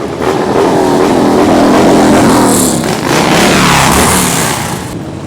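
Loud motorcycle engines going by, with the engine pitch sliding down as one passes and then another about three seconds in.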